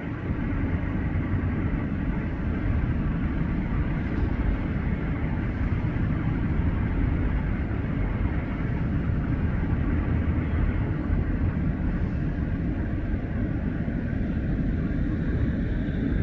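Steady rumble of a Cessna 550 Citation II in flight, its twin turbofan engines and the rushing airflow heard from inside the cabin, holding level without change.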